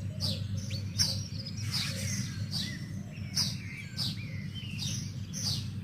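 Birds chirping: short, high, quickly falling chirps repeated about once or twice a second, over a steady low hum.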